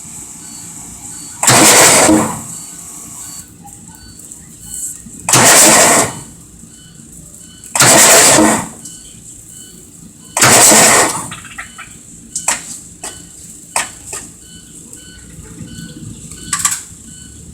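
Water-locked diesel engine being bumped over on the starter four times. Each bump is about a second of cranking, with antifreeze blasting out of the open cylinder holes as the engine clears the coolant from its cylinders. A few short sharp clicks follow in the latter part.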